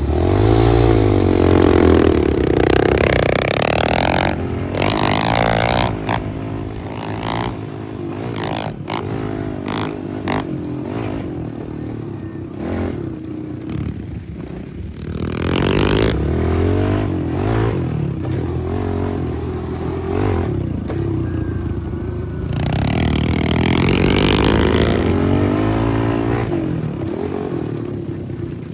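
Pit bike engine being ridden hard, revving up and down with the throttle and gear changes, with several strong rises in pitch: near the start, about halfway through, and again near the end. Rattles and scrapes from the bike and ground come through between the revs.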